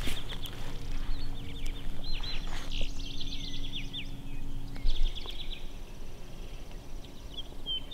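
Songbirds singing, with many short chirps, trills and quick rising notes over light wind noise. A brief low thump comes about five seconds in.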